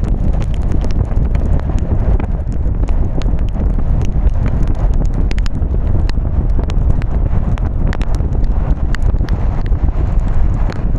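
Car driving in the rain: a steady low rumble of tyres and wind, with irregular sharp ticks of raindrops striking the car and camera.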